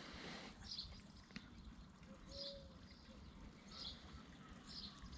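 Faint bird chirps: short high calls repeated four times, about a second to a second and a half apart, over quiet outdoor background.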